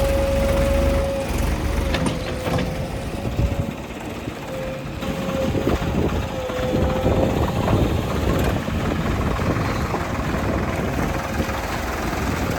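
Diesel engines of a tractor and a JCB backhoe loader running under load during a mud recovery, with a steady high whine over the engine noise.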